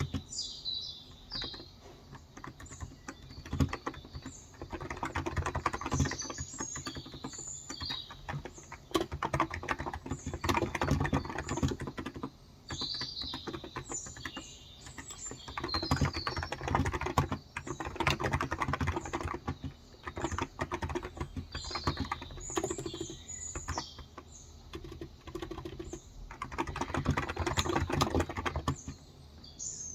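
Typing on a Cox Endeavour tenkeyless keyboard with 35 g electrostatic capacitive switches, in runs of keystrokes separated by short pauses. Small birds chirp in the background.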